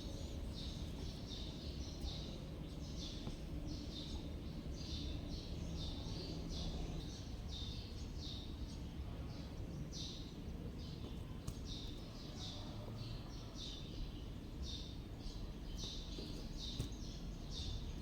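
Short high chirps repeating about twice a second, over a steady low background rumble.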